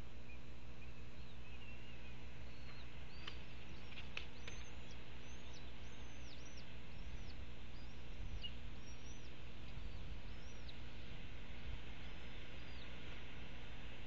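A bird chirping: about a dozen short, high, arched chirps at irregular intervals, plus a few sharp clicks early on. These sit over a steady low outdoor hum.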